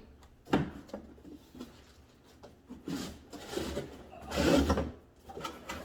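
Packaging and plastic vacuum parts being handled while unboxing: a sharp knock about half a second in, then bursts of rustling, the loudest and longest a little after four seconds in.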